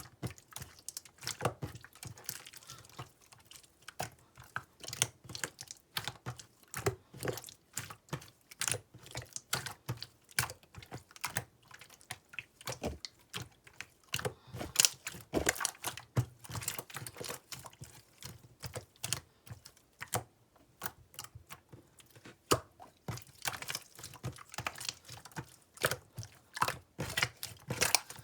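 Pink clear slime being worked by hand, giving an irregular run of sticky clicks and small wet pops, several a second. A few louder pops stand out around the middle and in the last third.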